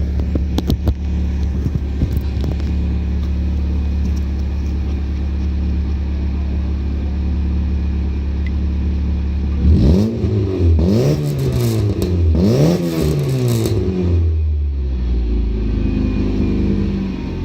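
Ford Ka engine idling through a newly fitted exhaust, then revved in several quick blips that rise and fall in pitch before it drops back to a steady idle.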